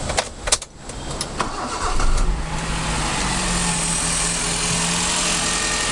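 Maruti Suzuki Zen engine started cold: a few sharp clicks, then the starter cranks briefly and the engine catches about two seconds in, settling into a steady idle. This is a test start after its rain-wetted spark plugs were cleaned and the coils refitted, to check for misfire.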